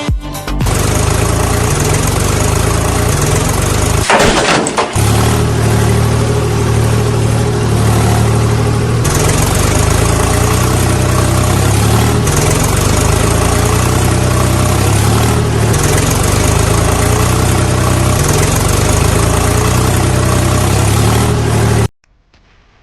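Tractor engine running steadily with a low hum, after a louder burst about four seconds in; it cuts off abruptly near the end.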